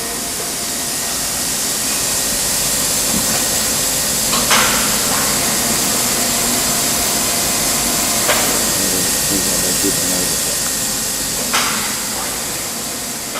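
Machine-shop background: a steady hiss with three sharp metallic knocks, about four seconds apart, as parts are handled and mounted on the machine.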